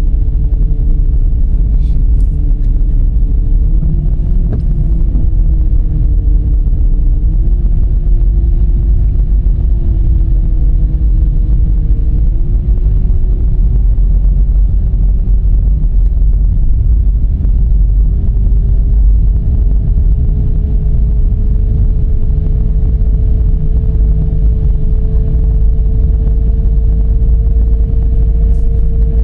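Dodge Charger's 3.5-litre V6 driving on the road: a loud, steady low rumble of engine, tyres and wind. An engine drone steps up in pitch a few times and then climbs slowly as the car speeds up.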